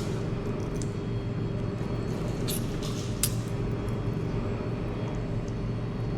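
Steady low rumble of street traffic, with a couple of sharp clinks about two and a half and three seconds in.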